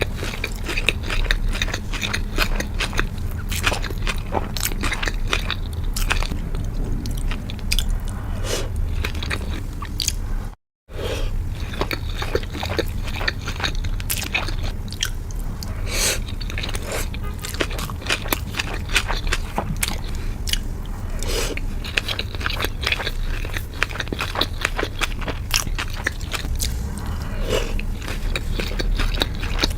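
Close-miked eating of sushi and sashimi: steady chewing and biting made of many short wet clicks, broken by a brief gap a little over ten seconds in.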